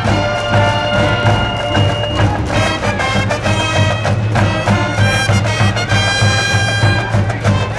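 High school cheering brass band playing a cheer tune, held brass notes over a steady, even drum beat.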